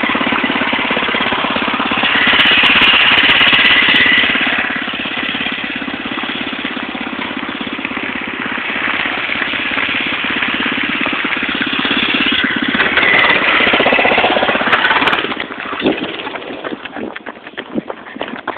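Small mini-bike or scooter engine running steadily, swelling louder twice as it picks up speed, then falling away near the end.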